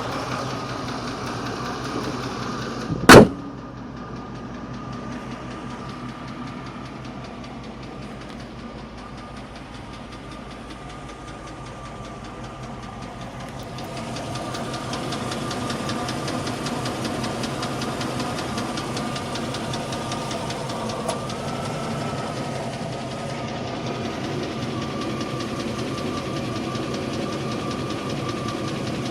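1998 Range Rover P38 engine running with a heavy, regular tick that the owner hears as still at valve speed; a slipped cylinder liner is the worry. A single loud thump about three seconds in, and the engine grows louder about halfway through.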